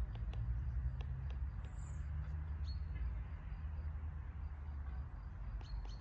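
Outdoor ambience: a steady low rumble with a few short, faint bird chirps and scattered light ticks.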